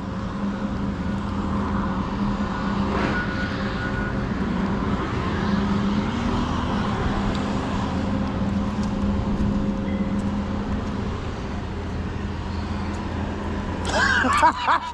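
Truck engine running steadily, heard from inside the cab as a low, even drone and hum.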